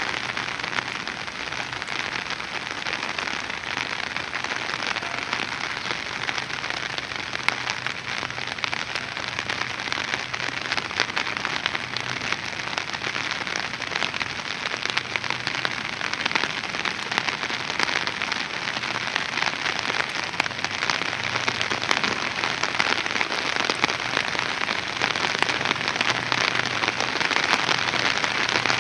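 Rain falling steadily on a hard surface, a dense, even patter of countless drops.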